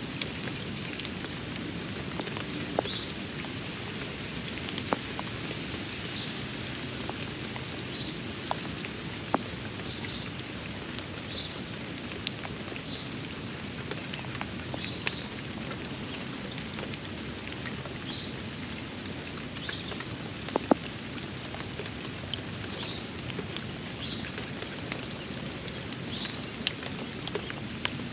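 Steady rain falling on a backyard pond and its surroundings, with scattered louder drops and drips striking nearby, the sharpest about 21 seconds in. A short high chirp repeats every second or two.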